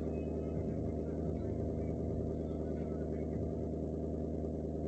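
Convertible car's engine idling steadily at low revs.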